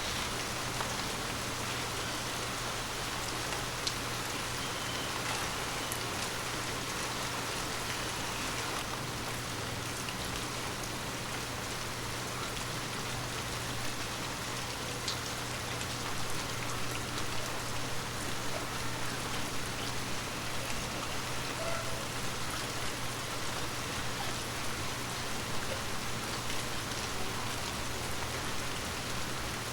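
Steady rain falling on forest leaves, a dense even hiss with single drops ticking here and there.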